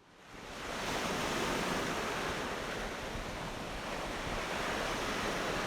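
Ocean surf: a steady wash of breaking waves that swells in over about the first second.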